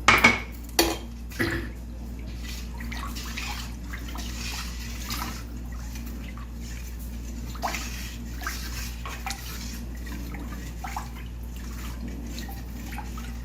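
A cup knocks against a pot three times in the first second and a half, then liquid sloshes and splashes as cups of sugar are added to a pot of strained corn-and-milk mixture for canjica.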